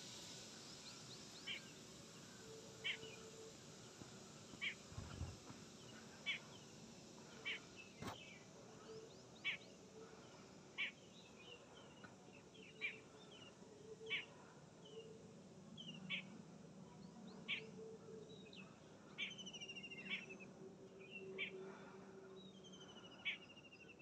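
A small bird calling over and over, a short high chirp about every second and a half, with a few longer trilled calls near the end, over a faint low hum.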